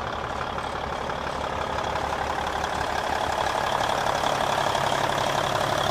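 Cummins N14 diesel engine of a Kenworth T800H truck idling steadily and growing gradually louder, sounding really nice.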